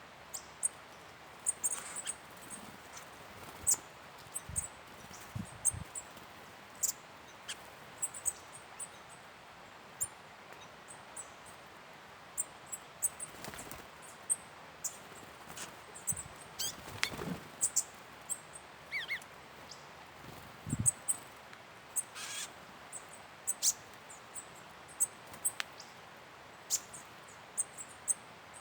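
Small birds chirping in the forest: many short, very high-pitched chips scattered irregularly, with a couple of brief sliding calls and a few soft knocks.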